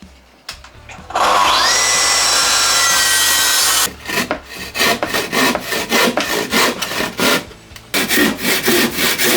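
A track saw spins up and runs steadily through a plunge cut in timber for about three seconds, then stops. A handsaw follows, finishing the cut in the wood with quick rasping strokes, several a second, with a short pause before the sawing resumes.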